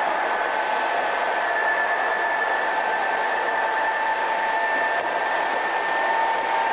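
Odakyu 5200 series electric train running: a steady noise with a held two-note whine, the upper note rising slightly about a second in.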